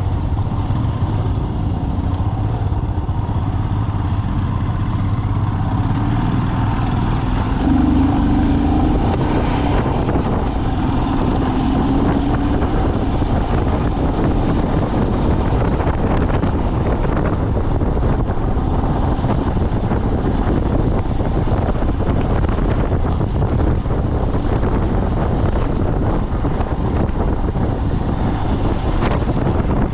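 Vehicle on the move: steady engine and road rumble, with a brief hum about eight seconds in.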